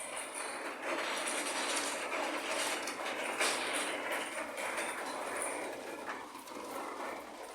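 Heavy rain falling hard onto a surface: a dense, steady noise of many drop impacts that starts suddenly.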